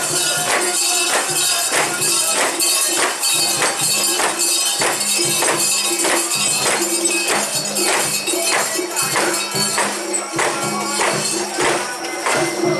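Jangling metal percussion in a steady beat about twice a second, with festival music, as mikoshi are carried in procession.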